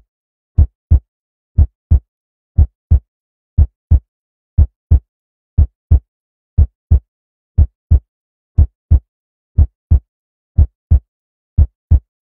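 Heartbeat sound effect: a slow, steady double-thump beat, about one beat a second, over silence.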